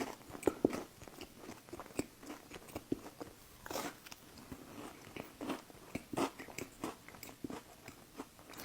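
A person biting and chewing a Crumbl Kit Kat cookie close to the microphone, with irregular small crunches and mouth clicks.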